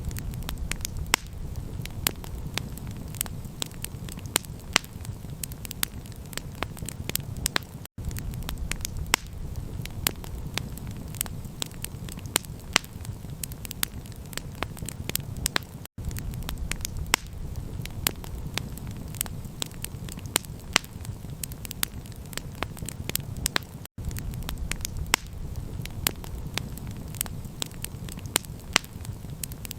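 Campfire crackling, with frequent sharp pops and snaps over a steady low rumble of burning. The sound cuts out for an instant about every eight seconds.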